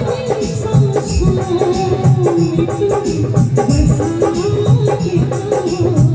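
Live stage-show band playing an instrumental interlude of a Hindi film-song duet: a wavering melody line over a steady percussion rhythm.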